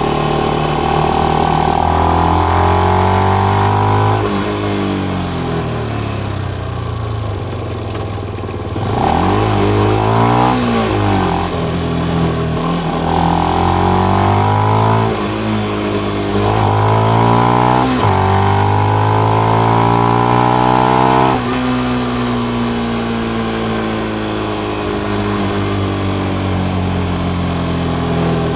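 Benelli BN125's single-cylinder four-stroke engine through its stock exhaust with the dB killer fitted, running under way. The revs climb and then drop sharply several times, as at gear changes; it eases off for a few seconds in the first third, pulls up again, and runs lower and steadier near the end.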